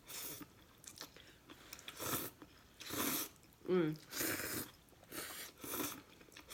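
Close-miked eating of instant noodles: about six separate slurps and chewing noises, with a short hummed "mm" a little past the middle.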